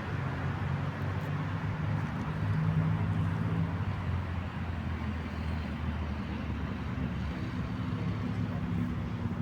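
An engine running with a steady low hum over a broad rumble, a little louder a few seconds in.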